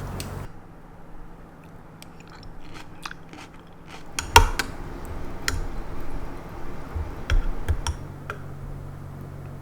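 Kitchen food-prep handling: scattered sharp clicks and knocks of utensils and food being worked, the loudest knock about four and a half seconds in and a few more between seven and eight seconds.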